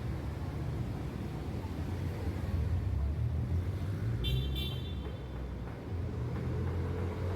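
Road traffic rumble from passing cars, with two quick high beeps about four and a half seconds in.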